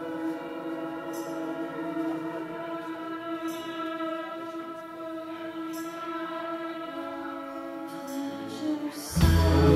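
Live rock band holding a sustained droning chord, with a faint tick about every two and a half seconds; about nine seconds in, the full band with drums and bass crashes in loudly.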